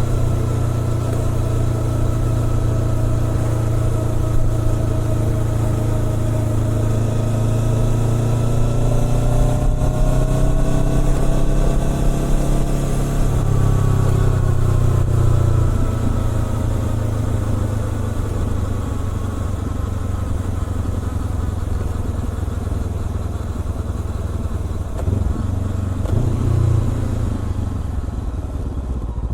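Honda CBR400R parallel-twin engine through a Trick Star Ikazuchi aftermarket exhaust, running under way with a deep rumble. Its pitch climbs slowly to a peak about halfway through, then falls away as it eases off, with two brief swells near the end.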